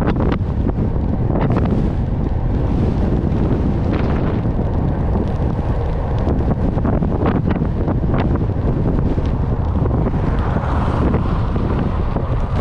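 Wind buffeting the microphone: a steady, loud low rumble with scattered crackles.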